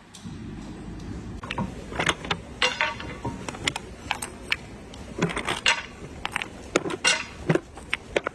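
Metal parts and tools clinking and clanking irregularly over a low steady hum, typical of hand work on a steel part such as an excavator swing bearing.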